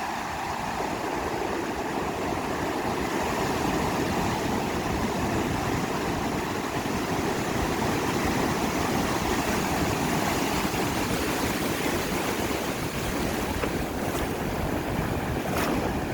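Sea surf washing onto a beach in a steady rush of waves.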